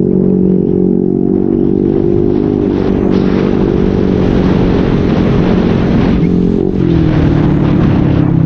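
Motorcycle with an SC-Project exhaust and modified elbow pipe running steadily under way, with a rushing noise over the engine note in the middle. The engine note steps down about seven seconds in.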